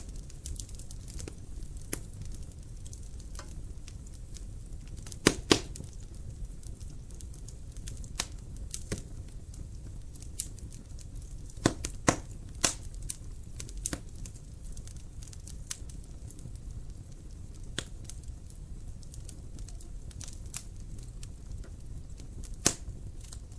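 Wood fire burning in a fireplace: a steady low rumble with irregular sharp crackles and pops, the loudest a quick pair about five seconds in and a cluster around twelve seconds.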